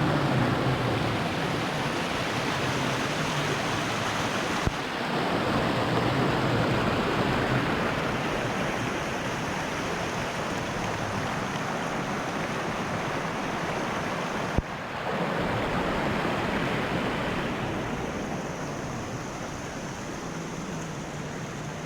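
Steady rush of the Putna's falling and flowing water, an even hiss across the whole range. The sound shifts twice with a brief click, about five and fifteen seconds in, and grows a little quieter near the end.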